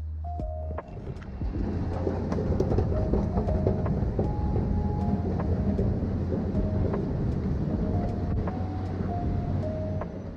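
Steady rumbling noise of a moving vehicle, which takes over from background music with a steady bass about a second in. Faint music notes go on over the rumble.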